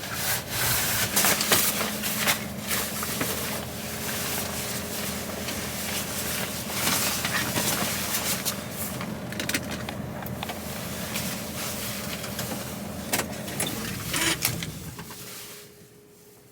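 HGV lorry's engine running, heard from inside the cab, with knocks and rustling over it. The engine stops about fifteen seconds in.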